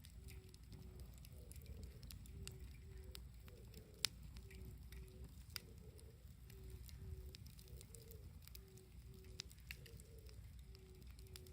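Wood campfire crackling softly, with scattered small clicks and a couple of sharper pops, the loudest about four seconds in.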